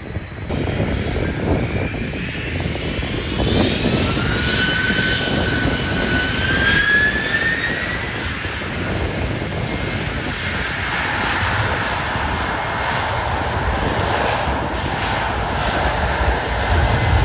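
Jet airliner engines roaring, with a high whine that rises in pitch about four seconds in, then a steady broad roar.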